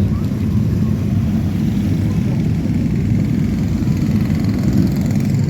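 Many motorcycle engines running together in a steady, dense low rumble.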